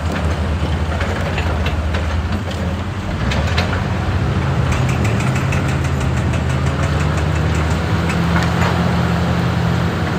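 Excavator's diesel engine running, its note rising under load about three seconds in, with scattered irregular knocks and clanks.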